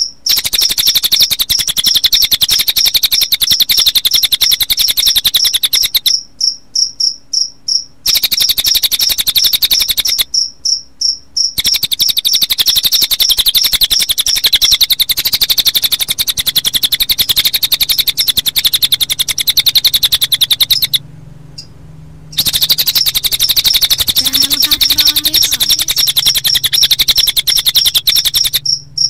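Cililin bird song mixed with cricket chirping: a loud, dense, fast high-pitched trill that pulses steadily, with a few short breaks and one near-stop about two-thirds of the way through.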